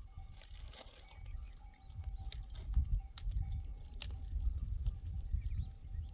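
Sheep and goats grazing close by: scattered sharp clicks of hooves and of grass being torn and chewed, over a low uneven rumble.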